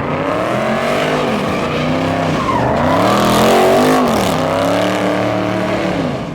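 Car engine revving hard and falling back over and over, the pitch rising and dropping about every two seconds, with tires skidding as the car slides around in donuts.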